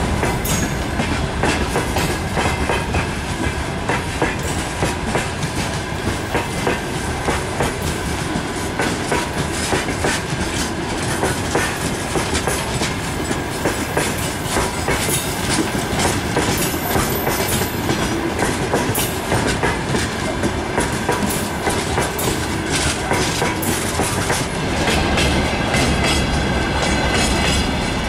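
Open gondola wagons of a freight train rolling past close by, their steel wheels clacking steadily over the rail joints, with a continuous rumble beneath a rapid run of clicks.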